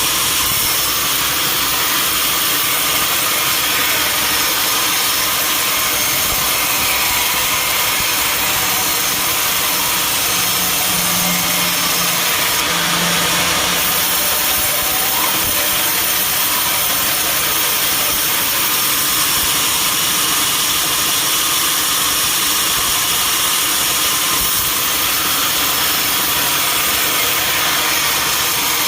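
Sawmill saw running with a steady, unchanging noise.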